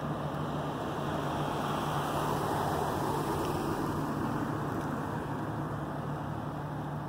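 A vehicle engine running steadily, with a rushing noise that swells a couple of seconds in and then eases off.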